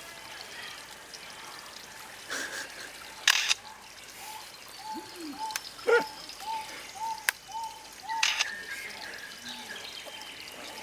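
A bird calling: a series of short, even, arched notes, about two a second, broken by a few loud harsh squawks.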